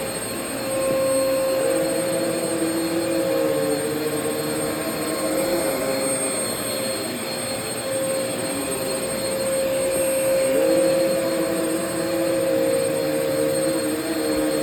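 Vacuum cleaner running with a steady motor whine. A second, lower tone shifts in pitch every several seconds, and the loudness swells as it does.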